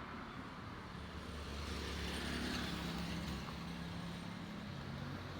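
Road traffic: a motor vehicle's engine running with a low, steady hum that grows about a second and a half in and eases near the end, over the general noise of the road.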